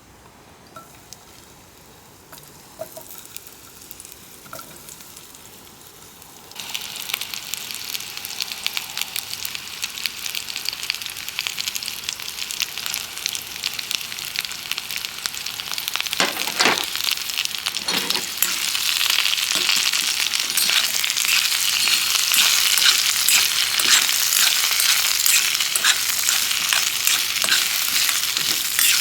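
Food starts sizzling in hot fat about six seconds in, beginning suddenly and growing louder, with a couple of knocks about halfway through.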